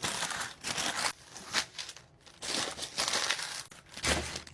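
Paper and plastic food packaging crinkling and rustling in irregular bursts as takeout items are handled and unwrapped, with a soft thump about four seconds in.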